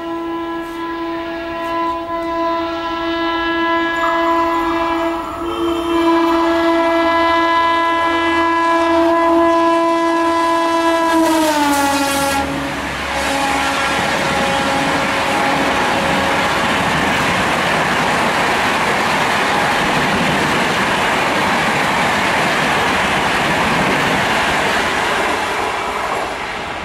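Indian Railways WAP-4 electric locomotive sounding its horn in one long, steady blast as it runs in at about 130 km/h. About twelve seconds in, the horn's pitch drops sharply as the locomotive passes, the Doppler shift of its passing, and the horn fades soon after. The Duronto Express coaches then rush past with steady wheel and air noise and clickety-clack, easing off near the end.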